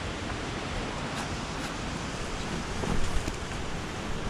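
Waterfall's steady rush of falling water, with a few faint knocks about three seconds in.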